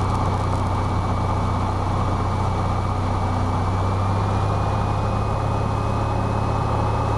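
Cessna 172's piston engine and propeller droning steadily in flight, a low even drone with a thin high whine above it that rises slightly in pitch about halfway through.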